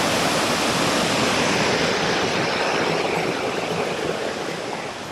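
Whitewater of a mountain river rushing steadily, a dense, even hiss of water, easing down somewhat over the last second and a half.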